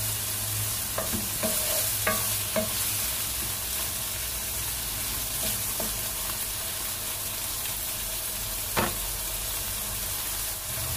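Diced pork, onion and garlic sizzling in hot oil in a non-stick wok as the pork browns, stirred with a wooden spatula that knocks against the pan several times in the first three seconds. A single sharper knock comes near the end.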